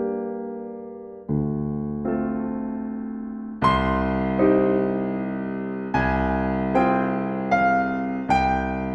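Gentle solo piano music: chords struck about once a second, each left to ring and fade before the next.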